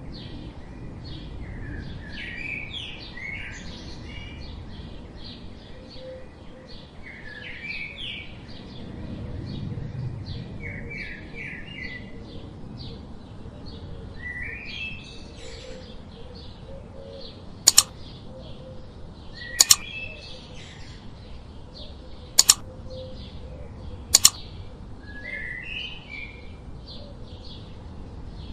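Birds calling: a fast, steady series of short high chirps under groups of short falling call notes. Four sharp double clicks stand out in the second half, louder than the birds.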